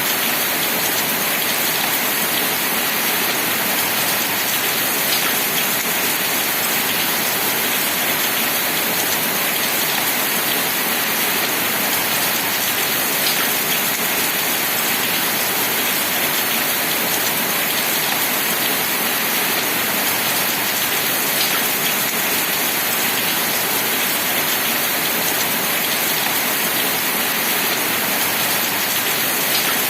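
Steady rain falling, an even hiss with a few faint single drop ticks standing out now and then.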